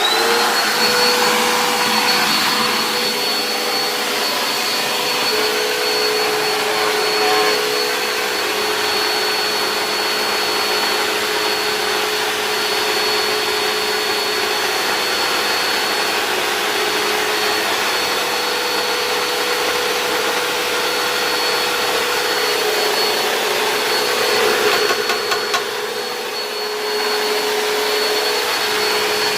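A vacuum cleaner switches on, its whine rising as the motor spins up, then runs steadily. Its note shifts a little now and then.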